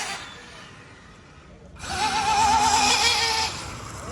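Electric RC drag car run in two bursts, its motor giving a wavering whine over a loud rushing noise; the first burst ends just after the start and the second runs from about two seconds in for a second and a half.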